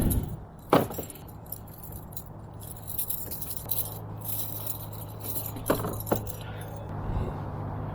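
Light metallic clinking and rattling of fishing gear, with sharp knocks about a second in and twice near six seconds, over a steady low hum.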